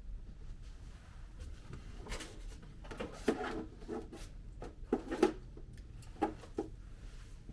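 Handling noises: a series of short knocks and rubs, with the loudest knocks in the middle and a couple more near the end.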